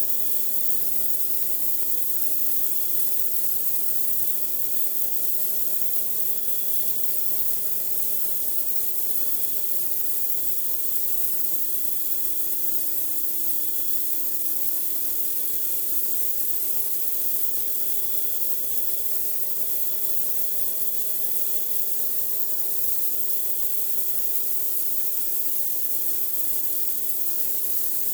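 Pressure washer spraying a driveway: a steady high-pressure water hiss, with the machine's constant hum beneath it.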